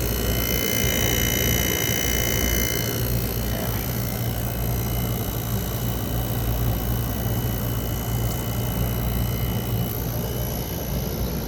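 2024 Midea 5,000 BTU window air conditioner running, its compressor working hard: a steady low hum under the whoosh of the fan. A high whine sounds over it for the first three seconds, then fades.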